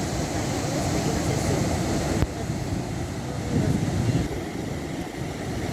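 Sea waves and wind, a steady low noise that swells and eases, with faint distant voices. A single sharp click a little over two seconds in.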